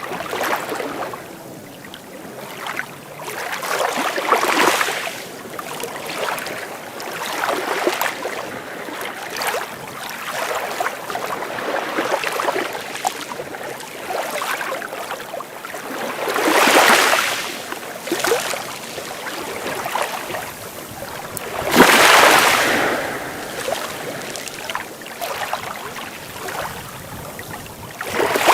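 Sea waves washing onto the shore in a steady hiss. Waves break more loudly about 4, 17 and 22 seconds in, the one at 22 seconds the loudest, and another near the end.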